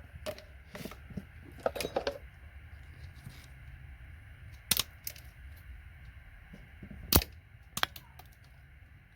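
Small metal and plastic connector parts being handled and set down, making scattered sharp clicks and taps; the loudest comes a little after seven seconds.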